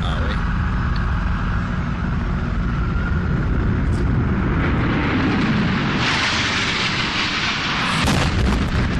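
Jet airliner flying in low: a steady rumble under a rushing engine roar that swells about four seconds in and is loudest for a couple of seconds near the end.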